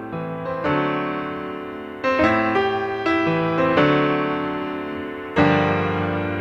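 Piano music: chords struck every second or two, each ringing on and slowly fading.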